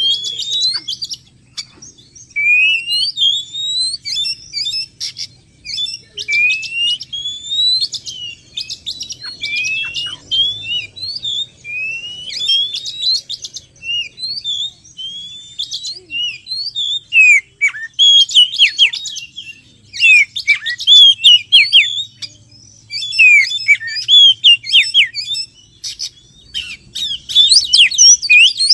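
Oriental magpie-robin (kacer) song played as a trapping lure call. Loud rising whistles repeat about every two seconds, then give way about halfway through to a denser run of quick, varied chirps and notes.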